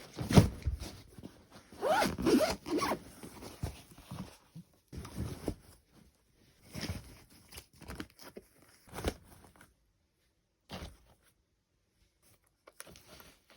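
Irregular rustling and scraping strokes in uneven bursts, like a zipper or cloth being handled, with a few brief squeaks about two seconds in; they thin out to scattered single strokes after about nine seconds.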